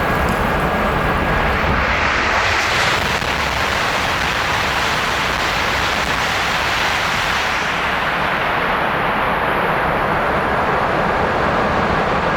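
A Tohoku Shinkansen high-speed train passing through a station at speed: a loud, steady rushing roar of wheels and air. It is brightest about two to three seconds in, and its hiss thins after about eight seconds.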